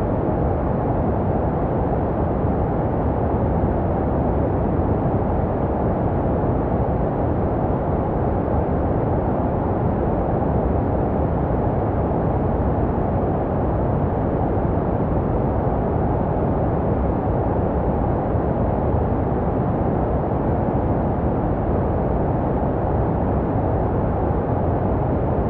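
Steady, unbroken low-pitched white noise, heavy in the low end and rolled off above the mid range, like a deep rumbling hiss: a synthetic sleep-sound noise meant to resemble what a baby hears in the womb.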